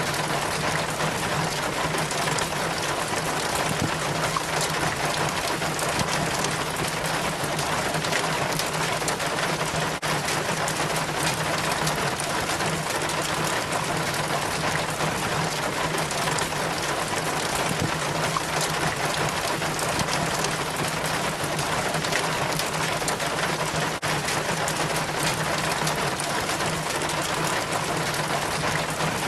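Rainwater running down a rain chain from a gutter, a steady dense trickle and splash of water over the chain links, with a faint steady low hum underneath.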